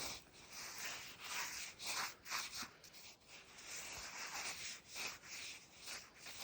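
Frozen, crusted snow crunching and scraping in a rough, irregular series of short strokes.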